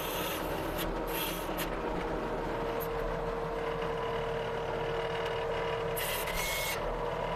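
Tracked skid steer running steadily while loading an attachment onto a truck, with a steady whine held through the middle and a few short high hisses near the start and end.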